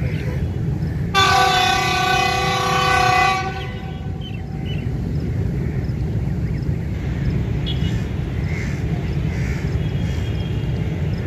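Diesel locomotive horn sounding one blast of about two seconds, starting a little over a second in, over the steady low rumble of the train pulling out.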